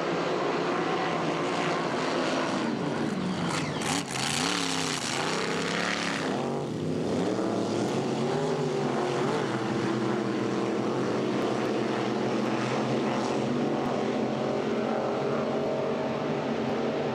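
Race-boat engines running, the engine note rising and falling several times about three to seven seconds in, then holding steady.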